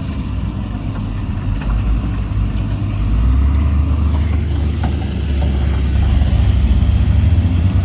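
Diesel engine of heavy earthmoving equipment running with a steady low rumble. About three seconds in it grows louder and its pitch shifts, as the machine works harder. A few faint knocks sound over it.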